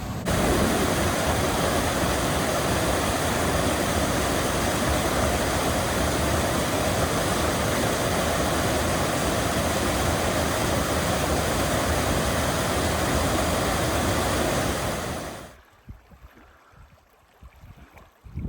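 Loud, steady rushing of a fast mountain creek. It cuts off suddenly near the end, leaving only faint sound.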